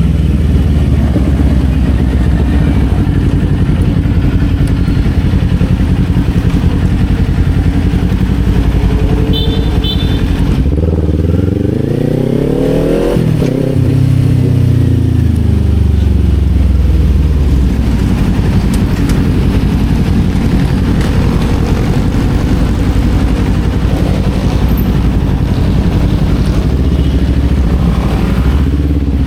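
Kawasaki Z400 parallel-twin engine running under way. About halfway through, the revs climb sharply for a couple of seconds and then fall away.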